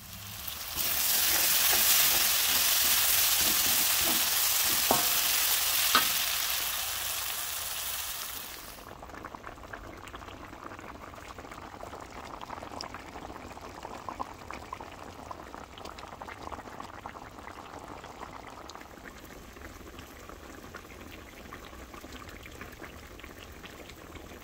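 A loud, steady sizzle of food frying in hot oil for about eight seconds, with two sharp clicks in the middle of it. It then drops to a quieter crackling and bubbling of a curry simmering in the pan.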